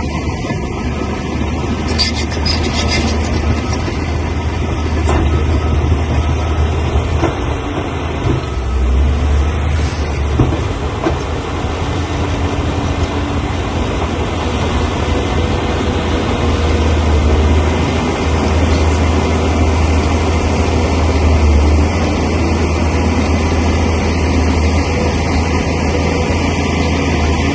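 Shantui crawler bulldozer's diesel engine running loud and steady with a deep rumble as the machine works stone, with a few clanks from the tracks or blade.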